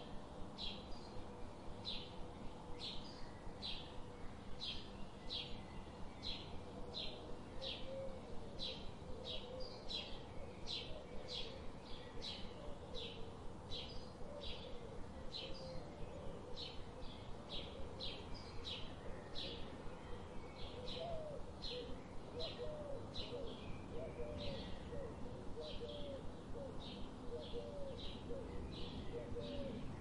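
Birds calling outdoors: one bird repeats a short high chirp about twice a second throughout. Lower, wavering calls join from about a quarter of the way in and grow more frequent in the second half.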